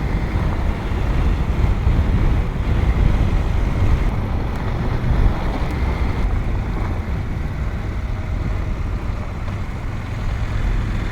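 Motorcycle under way on a gravel road: the engine runs steadily under a continuous rush of wind and road noise.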